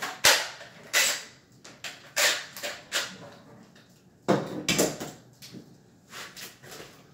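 A run of sharp knocks and clatters from wooden kitchen cabinets being handled during installation, the loudest cluster about two thirds of the way through.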